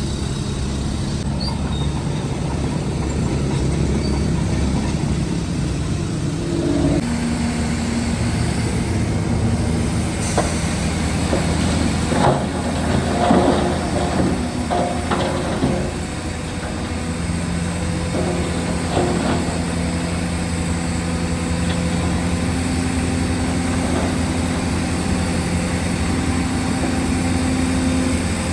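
Heavy diesel earthmoving machinery running steadily, the engine note shifting in pitch a few times, with a stretch of metallic clanking and scraping of rock about halfway through.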